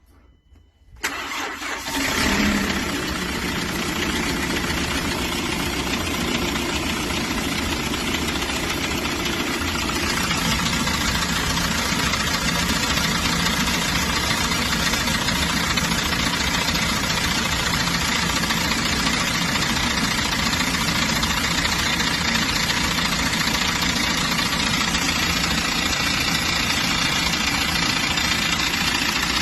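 Kia Frontier's D4CB 2.5-litre four-cylinder diesel engine starting about a second in, then settling into a steady idle with the running noise of its timing chain.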